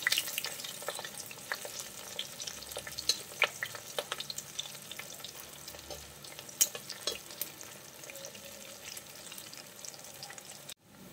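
Spice-coated beef strips deep-frying in hot oil in an iron pan: a steady sizzle with many sharp pops and crackles, thick at first and thinning out later, as the meat browns and crisps. The sound cuts off suddenly near the end.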